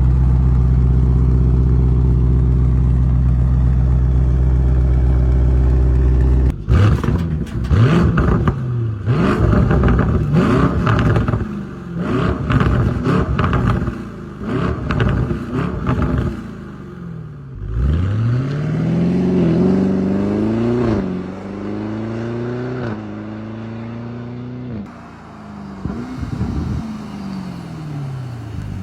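A steady low drone for about six seconds that cuts off suddenly, followed by car engines revving and passing, their pitch repeatedly rising and falling.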